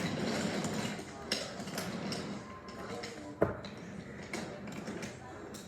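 Toy train running along its track: a small motor whirring with irregular clicking and clatter, and one sharp click about three and a half seconds in.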